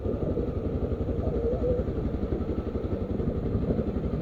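Motorcycle engine running steadily at low speed, with a fast, even pulse of firing strokes.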